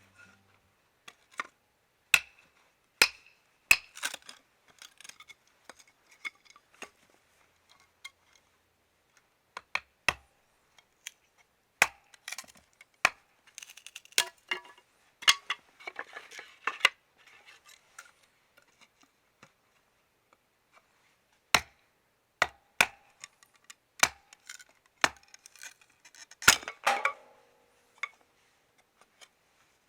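Irregular sharp clinks and knocks of dishes and utensils being handled, some ringing briefly, with quiet gaps between; a dense cluster of them comes about 26 to 27 seconds in.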